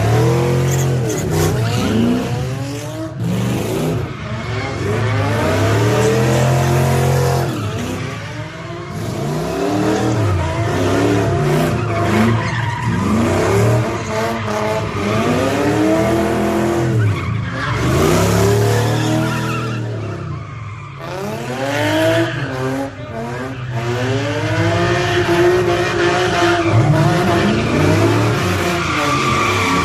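A car's engine revving up and falling back again and again, with tyres screeching, as a car spins donuts.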